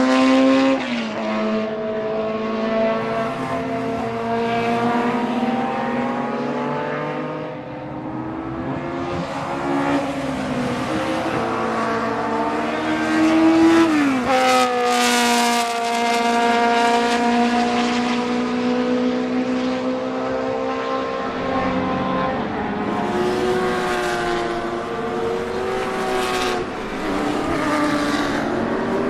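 BMW M12/7 two-litre inline-four Formula 2 racing engine running hard, its pitch climbing and falling with the throttle. Near the middle the pitch drops sharply after a long climb.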